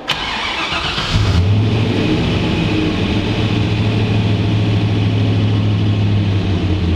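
Turbocharged LS V8 cranked by its starter for about a second, then catching and settling into a steady idle through the mufflers.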